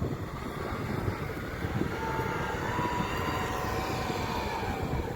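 UAZ off-road vehicle driving, a steady engine and drivetrain rumble with a whine that comes in about two seconds in, rises slightly and then falls away.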